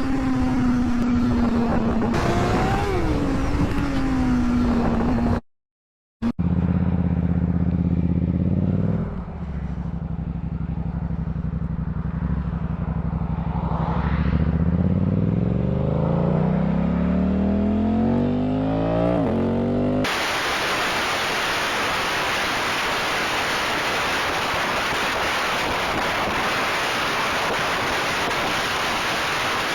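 Motorcycle engine running hard at speed, its pitch slowly sagging. After a brief dropout, an engine runs steadily, eases off, then revs up with a rising pitch over about five seconds. For the last ten seconds there is a steady loud hiss and no engine tone.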